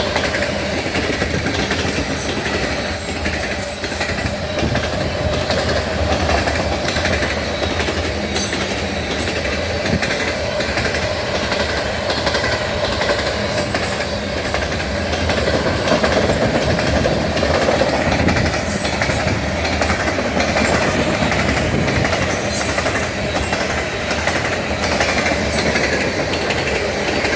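Grain train's freight cars rolling past at speed, a steady rumble with the clatter of wheels over the rail joints.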